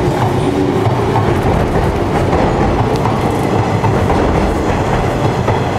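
JNR 189-series electric train pulling out of the platform and rolling past close by, its wheels clattering over the rail joints with a steady, loud rumble.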